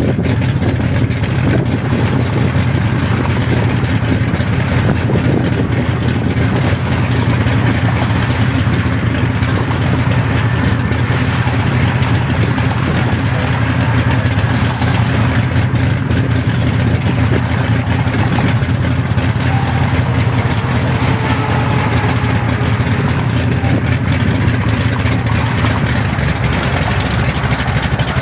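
Classic car's engine idling with a steady low rumble.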